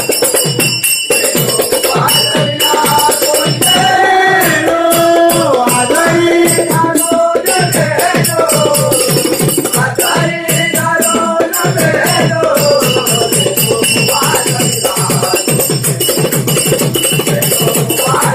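Devotional bhajan music: a group singing over a quick, steady beat of drum strokes and jingling percussion. The singing is strongest through the middle and fades in the last few seconds, leaving the percussion.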